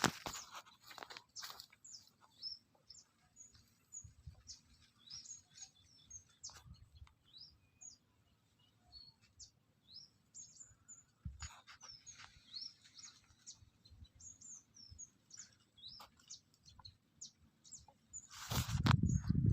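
Small birds chirping, many short high calls and quick falling notes scattered throughout. A loud low rustling burst comes near the end.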